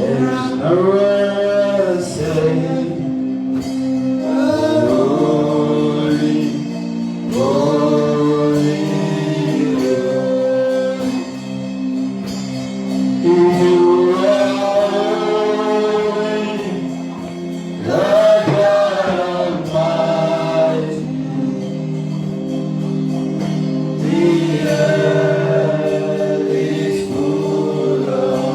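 Gospel worship music: voices singing long held phrases over sustained keyboard-like chords.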